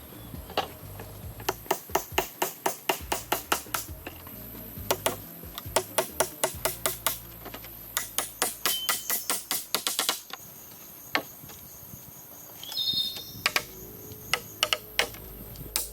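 Runs of rapid, sharp tapping knocks, several a second, that stop and start in bursts.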